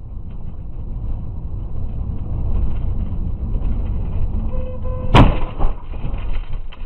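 Car on the move with a steady low road-and-engine rumble, then a single sharp bang about five seconds in, the sound of a vehicle collision, followed by a few smaller knocks.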